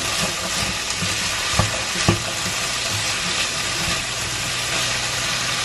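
Diced potatoes and pork sizzling as they fry in oil in a frying pan, stirred with a spatula. The spatula clicks against the pan twice, about one and a half and two seconds in.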